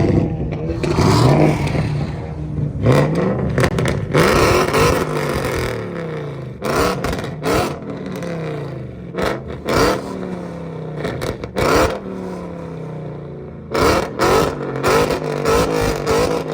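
Car engines revved hard over and over, the pitch climbing and dropping many times, with sharp exhaust pops and bangs in between.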